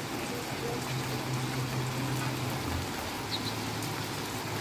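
Steady heavy typhoon rain falling, with a low hum underneath that fades a little under three seconds in.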